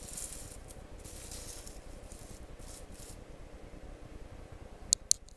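Overhead-transparency plastic sheets rustling as they are handled and laid over each other, in patches during the first three seconds, then two sharp clicks about five seconds in.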